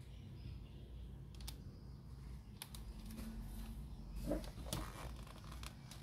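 Scattered small clicks and handling noises, as of parts or tools being handled, over a low steady hum. The clicks are busiest about four to five seconds in.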